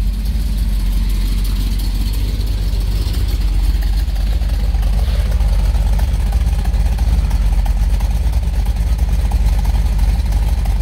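A 440 Six Pack V8 idling steadily, heard at the exhaust tips, with a little lumpy flavor from its mild Comp Cams camshaft.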